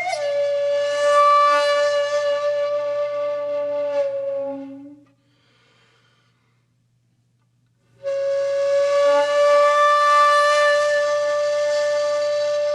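Conch shell (shankha) blown in long held notes. The first note fades out about five seconds in, and after a pause of about three seconds a second long note starts and holds steady.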